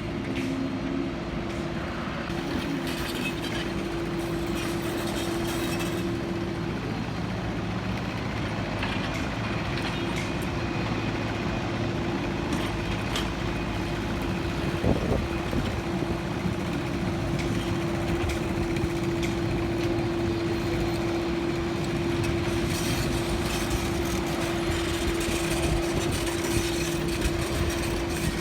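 Steady mechanical drone with a constant hum running through it, and one brief click about halfway through.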